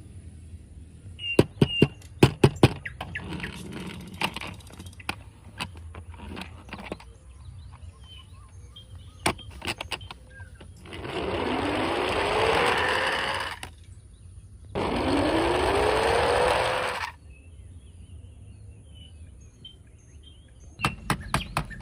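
Plastic toy cars clicking and clattering as they are handled, then two whirring runs of about two and a half seconds each, the pitch rising through each one.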